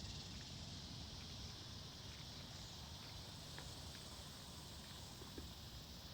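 Faint, steady high-pitched insect chorus over a low rumble of wind, with a few faint ticks.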